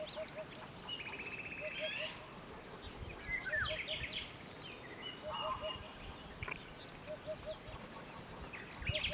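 Eurasian hoopoe singing its soft, low three-note 'oop-oop-oop', repeated every one to two seconds. Other small birds chirp higher up, and there is a brief buzzy rattling call about a second in.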